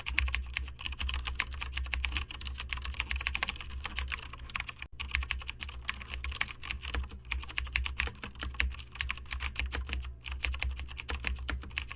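Continuous fast typing on a computer keyboard: dense, rhythmic keystroke clicks, breaking off very briefly about five seconds in and again near ten seconds, over a steady low hum.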